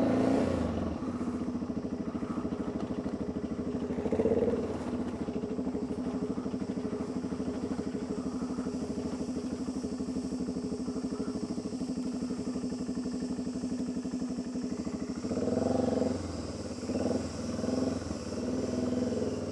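Motorcycle engine running steadily with a fast even firing pulse. The engine note swells briefly about four seconds in and rises and falls several times near the end.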